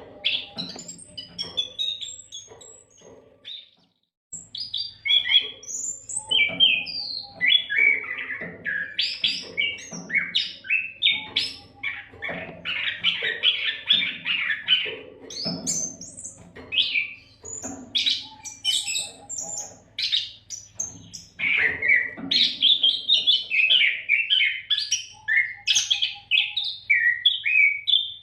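Oriental magpie-robin (kacer) singing vigorously: a fast, unbroken run of varied whistles, trills and chattering phrases. There is a brief gap about four seconds in.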